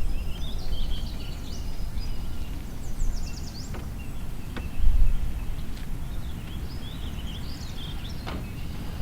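Wild birds chirping and trilling in short phrases over a steady low rumble of outdoor background noise, with a low thump about five seconds in and a few sharp clicks.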